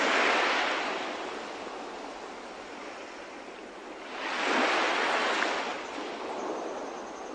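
Sea waves washing, two swells rising and falling about four seconds apart over a steady hiss of water.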